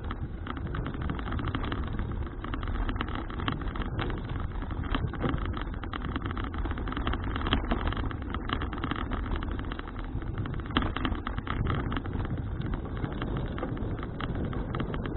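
Wind buffeting an action camera's microphone and tyre rumble from a bicycle riding along a road, a steady rushing noise with constant small crackles.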